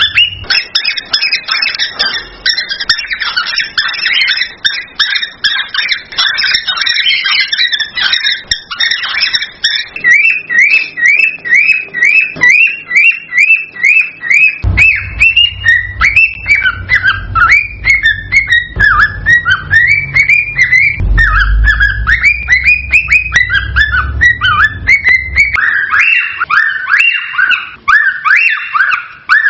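Cockatiels calling: dense, rapid runs of shrill chirps and whistles, several a second, running on without a break.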